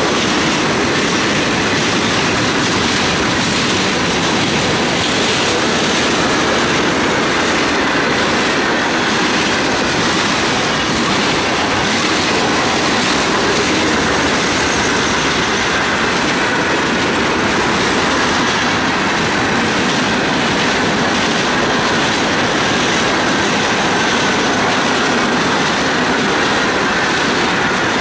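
Freight train cars rolling past at steady speed: continuous wheel-on-rail clatter with a faint high squeal from the wheels.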